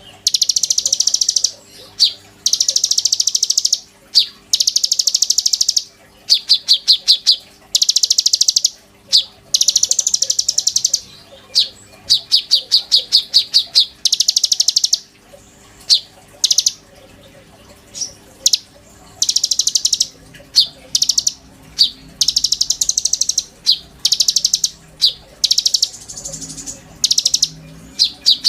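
Konin songbird singing continuously: high, rapid buzzy trills alternating with fast runs of sharp repeated notes, each phrase about a second long with short breaks between.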